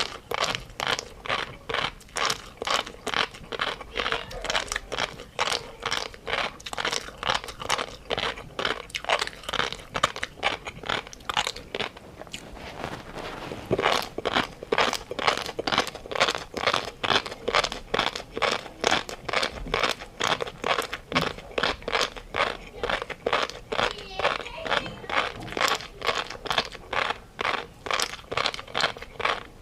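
Close-up chewing of a crunchy food: steady, even crunches about three a second, with a brief pause about twelve seconds in.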